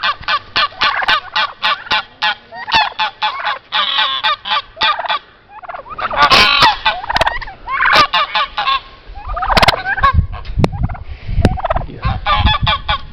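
A pen of poultry calling: a quick run of short, repeated squawking calls, then louder scattered squawks.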